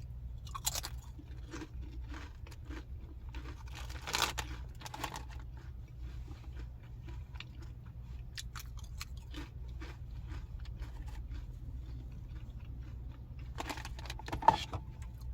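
Close-up chewing of crunchy snack chips, a steady run of small crisp crunches with louder bites about four seconds in and again near the end.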